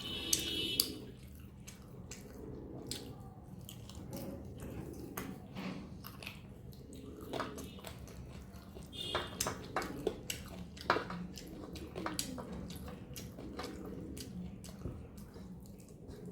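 Close-up chewing and wet mouth sounds of someone eating curry and rice, with many short smacks and clicks scattered through.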